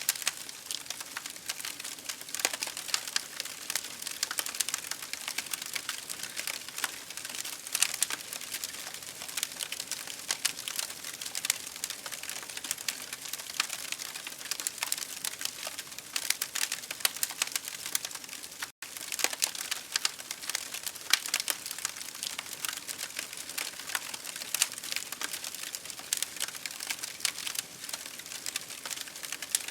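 Campfire crackling with a dense, irregular run of pops and snaps over a steady hiss of rain. The sound cuts out for an instant about two-thirds of the way through.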